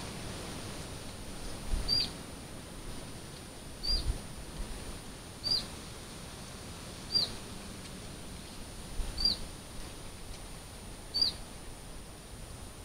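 A bird giving a short, high, down-slurred call six times, about once every two seconds, over faint outdoor background noise.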